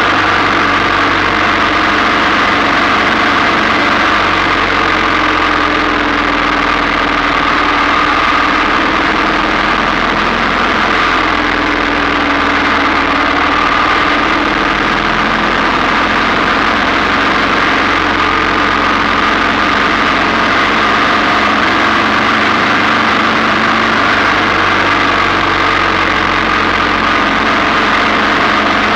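1947 Ariel VH500's single-cylinder engine running steadily under way, mixed with a steady rush of wind and road noise.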